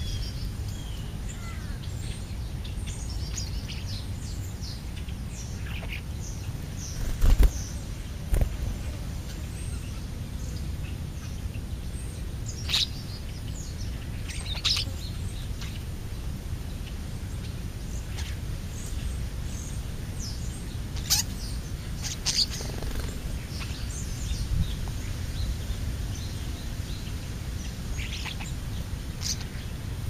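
Birds at a ground feeding spot giving scattered short chirps and calls over a steady low outdoor rumble. There are two dull thumps about a quarter of the way in.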